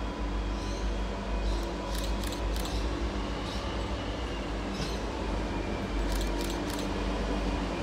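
Freight train rolling past: a steady low rumble of wagons on the rails, with two clusters of sharp clicks.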